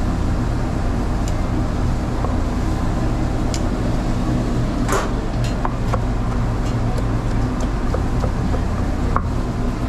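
A steady low mechanical drone, with a few short sharp clicks and knocks scattered through it.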